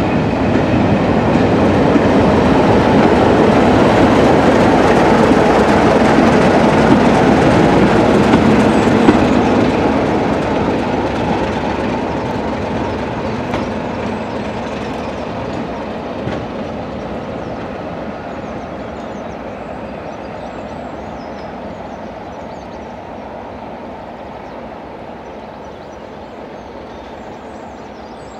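Diesel-hauled train of coaches passing close by, with wheels clattering over the rails. It is loudest for the first several seconds, then fades steadily as it draws away.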